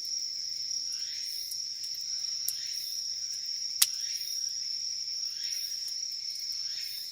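Insects singing in a steady high-pitched trill, with softer repeating chirps over it. A wood campfire crackles, with one sharp pop about halfway through.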